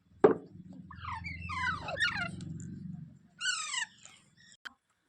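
Indian ringneck parrot calling: a run of quick gliding chirps, then one louder harsh squawk falling in pitch. A sharp knock comes at the start, followed by a low rumble under the first calls.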